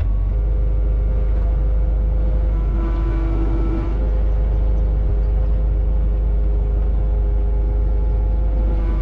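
Kubota KX61-2a mini excavator's diesel engine running steadily, with a constant low rumble and steady whining tones from its hydraulics, some of which come and go as the controls are worked.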